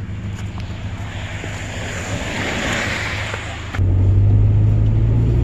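Low, steady vehicle engine rumble with a windy hiss that swells and fades in the middle. The rumble turns abruptly louder about four seconds in.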